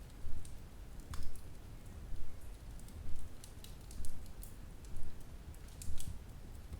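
Wood fire burning in a fireplace: scattered sharp crackles and pops over a low rumble of flames that swells about once a second.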